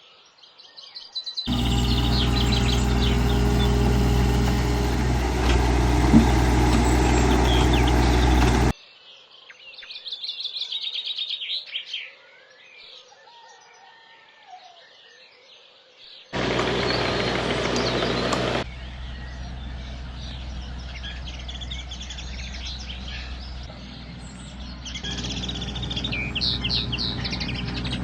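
Birds singing and chirping over the steady low running of a machine's engine. The engine starts and stops abruptly several times, and a stretch near the middle holds birdsong alone.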